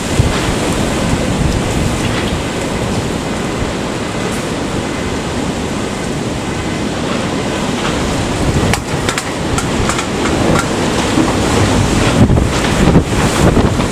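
Typhoon-force wind blowing hard across the microphone in a loud, continuous rush, gusting stronger in the last few seconds.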